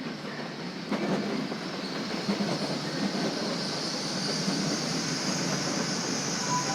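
A train running past on the rails: steady rolling wheel noise that gets louder with a sharp step about a second in and then holds steady.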